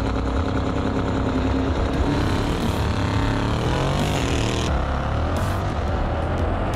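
Mercedes-AMG V8 engines at full throttle, launching from a standing start in a drag race. The revs climb in pitch and drop back at each gear change.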